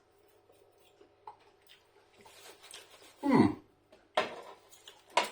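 A man chewing food, with soft mouth noises, then a short loud vocal sound about three seconds in and two sharper mouth or throat noises near the end.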